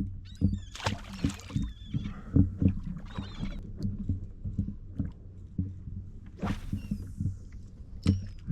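Repeated knocks and bumps on a kayak as a fish and fishing gear are handled, with water splashing twice and bird calls overhead.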